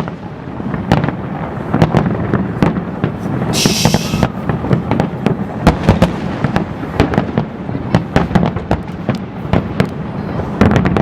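Fireworks bursting in quick succession: many sharp bangs over a continuous rumble, with a short hiss about three and a half seconds in.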